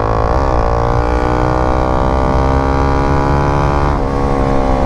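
Modified Honda CBR 250 motorcycle engine pulling hard under way at high revs. There is a quick dip in pitch just after the start and a sudden drop about four seconds in, as it changes gear.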